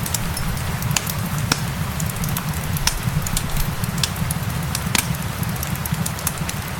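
Wood fire crackling, with irregular sharp pops, over a steady hiss of rain and a low, steady rumble.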